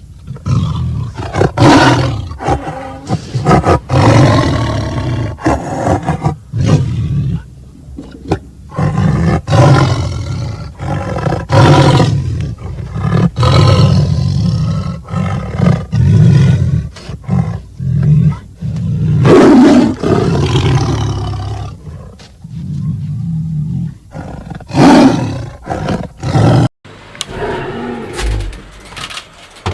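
A big cat roaring and growling again and again in loud, deep calls, cut off abruptly near the end.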